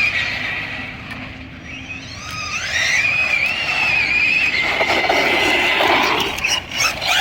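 Electric RC cars' motors whining, the pitch climbing and falling as they accelerate and back off. Tyres scrub and clatter on the track surface around the middle.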